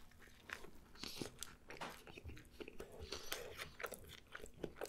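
A person biting into and chewing a pita wrap close to the microphone: faint, irregular crunching and mouth clicks.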